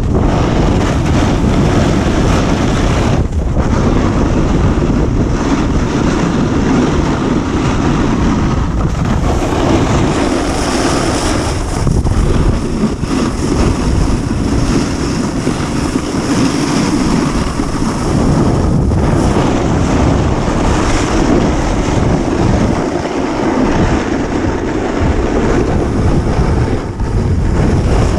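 Loud, steady rush of wind buffeting a GoPro's microphone during a fast snowboard descent, mixed with the board sliding and scraping over the snow.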